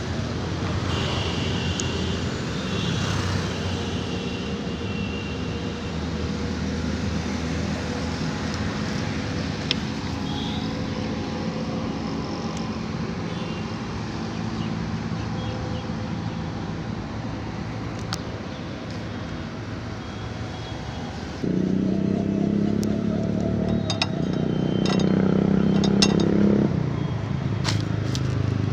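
Motorcycle engine running steadily at idle. About three-quarters of the way through it suddenly gets louder and runs at a raised pitch for several seconds, then eases back slightly.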